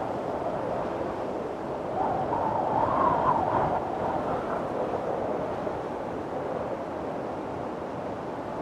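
Strong wind blowing in a steady rush, with a gust swelling about two seconds in into a rising whistle that fades again after a second or so.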